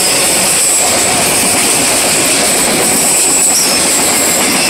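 Freight train of enclosed autorack cars rolling past close by: a loud, steady rush of steel wheels on rail with a constant high-pitched hiss over it.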